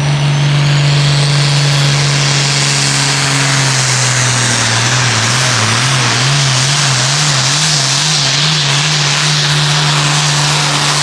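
Turbocharged diesel farm tractor at full throttle pulling the sled down a tractor-pull track. The engine note holds steady, then wavers up and down near the middle. A high turbo whistle climbs in pitch over the first few seconds.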